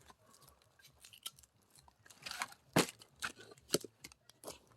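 Axe splitting firewood: a series of sharp knocks and cracks of wood, with the loudest strike nearly three seconds in and another about a second later.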